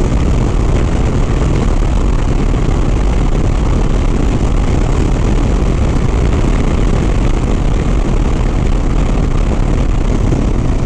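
Steady rush of wind over the rider's microphone with the low drone of a Harley-Davidson Sport Glide's V-twin underneath, cruising at highway speed.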